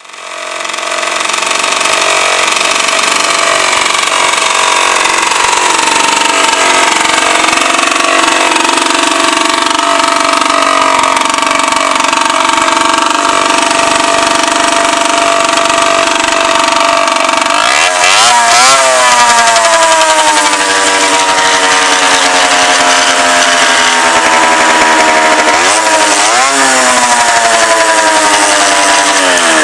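Suzuki TSX moped's two-stroke engine running loudly at a steady speed, then revved up and let fall back several times in the second half.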